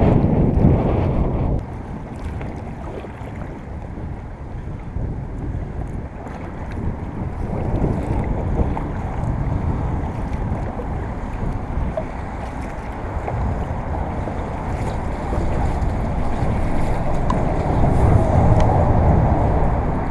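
Wind rumbling on the microphone, heavier for the first second or two and again near the end, over water sounds around an inflatable kayak.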